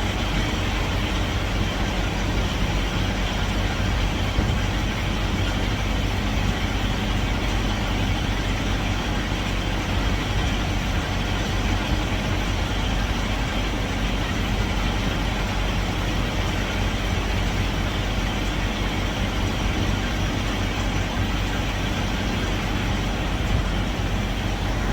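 Semi truck's diesel engine idling steadily under an even rushing noise.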